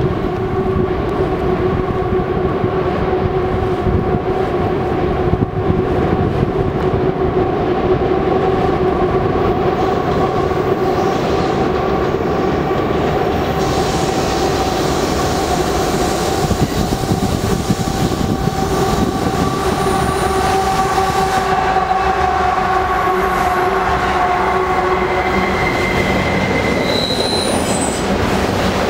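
Freight train of diesel locomotives and double-stack container cars rounding a curve: a steady rumble under a continuous high wheel squeal from the curve, with shorter, higher squeals near the end as the cars pass close.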